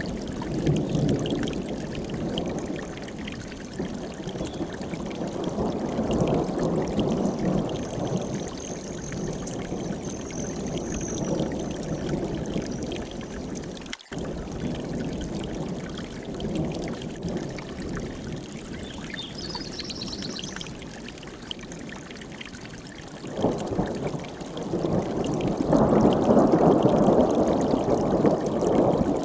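Mountain stream rushing, a steady watery noise that swells louder near the end. A faint high bird call sounds about two-thirds of the way in, and the rush cuts out for an instant about halfway.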